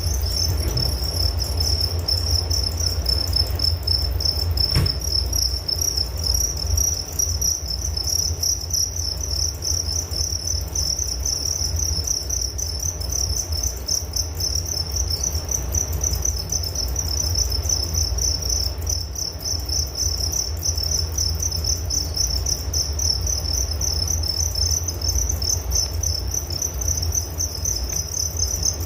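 Crickets chirping steadily in a dense, high-pitched pulsing trill, over a steady low rumble, with one faint click about five seconds in.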